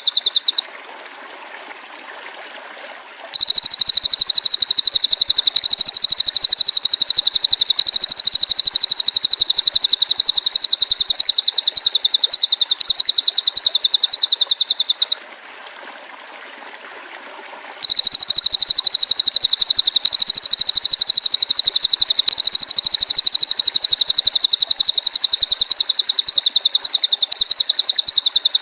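A high-pitched, very fast, evenly pulsed buzzing trill from a songbird-training (masteran) recording, sung in long unbroken bouts of about twelve seconds. It stops just after the start, resumes about three seconds in, breaks off for a couple of seconds around the middle, then starts again.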